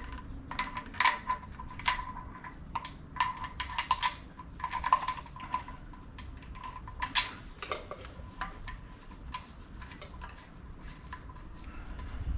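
Light metal parts and hand tools clinking and clicking irregularly while engine parts are handled and fitted. Several knocks come close together in the first few seconds, then they thin out.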